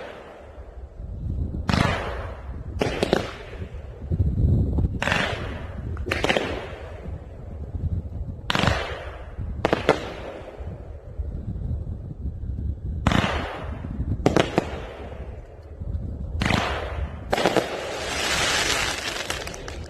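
A 30-shot, 500 g consumer fireworks cake firing, shot after shot: about a dozen sharp bangs one to two seconds apart, each fading out in a short tail. Near the end comes a longer stretch of crackling from its white strobe effects.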